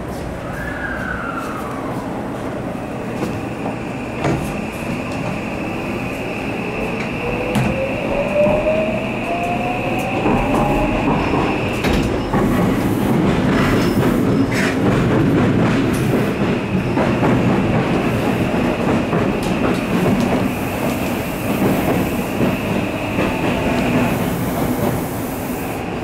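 Odakyu 5000 series electric train heard from inside the car as it gets under way: the traction motor whine climbs steadily in pitch for several seconds, then the rumble of the wheels on the rails grows louder and settles into steady running noise. A thin high whine runs under it, with a few clicks along the way.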